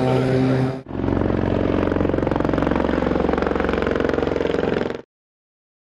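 Aircraft engine noise with steady tones, which cuts off abruptly a little under a second in and gives way to a different engine sound with a fast, even pulse. That stops dead about five seconds in, leaving total silence.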